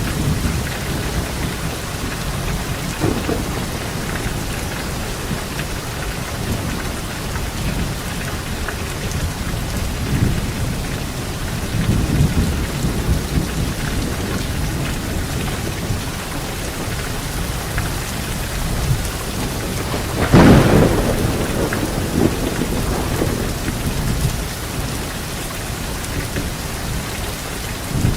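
Steady rain with low rolling thunder, and one sharper, louder thunderclap about two-thirds of the way through.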